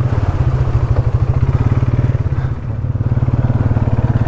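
ATV engine running at low speed under load, with a steady fast pulsing beat; it eases off briefly about two and a half seconds in, then picks up again.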